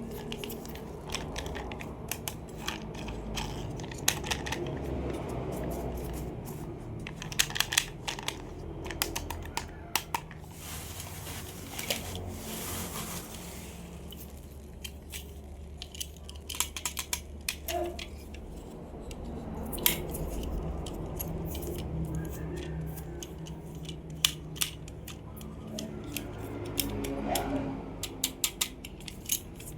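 Toy cars and their plastic and cardboard packaging being handled up close: scattered sharp plastic clicks and taps, in quick clusters at times, with a stretch of rustling or tearing midway.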